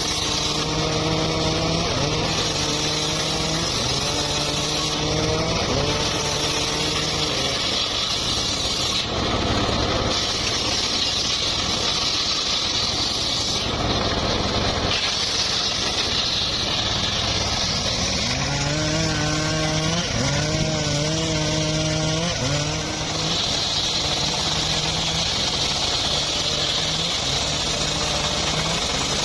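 Engine-driven saw running under load while cutting mahogany, its engine pitch wavering and bending as the cut bears on it, with two short stretches of plain rushing noise.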